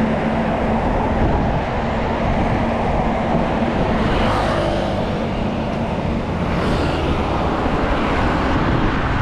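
Road traffic noise heard from a moving bicycle: a steady, loud rush with wind on the GoPro's microphone, and vehicles going by about four and a half and seven seconds in.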